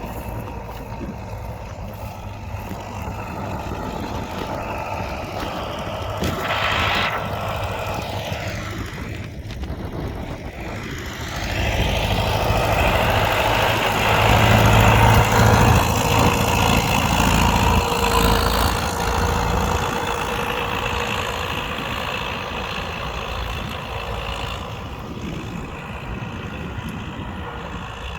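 Diesel engine of a Romanian U650 tractor running steadily while ploughing. It grows louder about a third of the way in, holds through the middle, then eases off.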